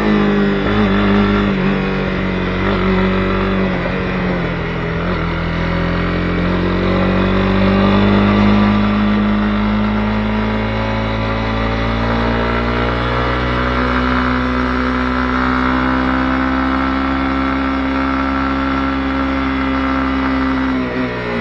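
Honda CB250R's single-cylinder four-stroke engine under way, its pitch climbing slowly with the throttle and holding. The pitch drops sharply near the end.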